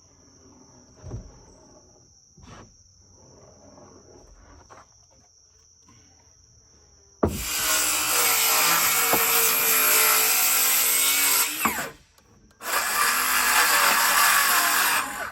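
Crickets chirping, with a few faint knocks. About seven seconds in, a cordless circular saw starts cutting wood, runs for about four and a half seconds, stops briefly, then cuts again for about two and a half seconds, its battery running low.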